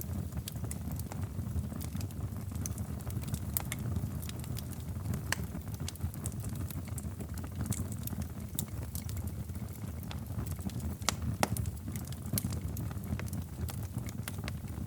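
Wood fire in a fireplace crackling, with irregular sharp pops over a low, steady rumble. One pop about eleven seconds in is louder than the rest.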